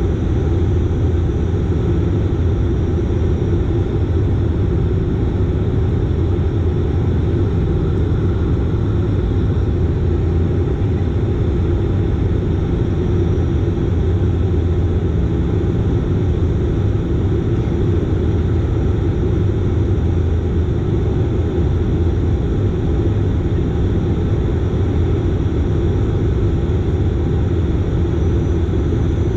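Dash 8 Q400's turboprop engines and six-bladed propellers droning steadily, with a strong low hum and no change in pitch or level.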